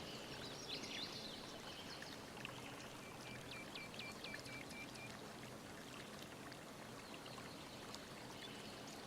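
Faint steady hiss, with a quick run of about eight short high chirps around the middle.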